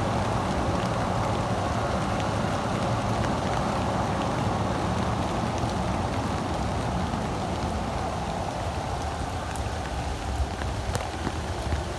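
Steady rain falling, with a low rumble underneath and a few sharp drop ticks near the end.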